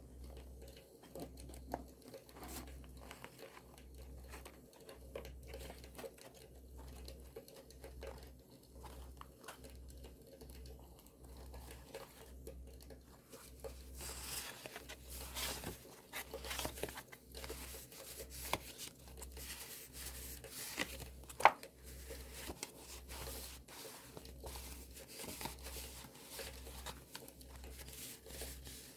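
Paper being torn and crinkled by hand, much busier from about halfway through, with one sharp click a little after that. Campfire crackle runs underneath.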